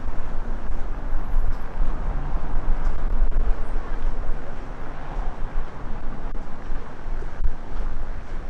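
Storm-force wind buffeting the microphone: a heavy, uneven low rumble in gusts, with a hiss of wind over it. It is the wind noise of a windshield that cannot cope with the windstorm.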